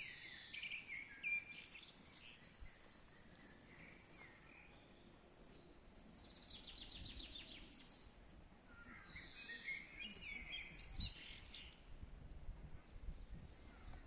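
Several songbirds chirping and calling over faint outdoor background noise, with a fast trill of repeated notes about halfway through. A low rumble builds near the end.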